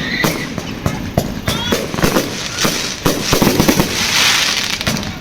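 Fireworks going off: rapid, irregular bangs with a few short whistles, and a dense crackling around four seconds in.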